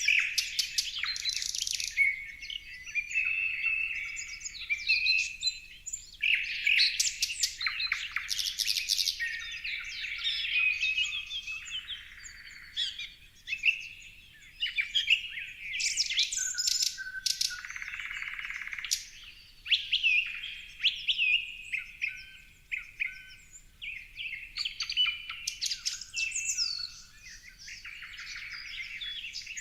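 Several songbirds chirping and singing at once, a dense run of quick overlapping chirps, trills and twitters.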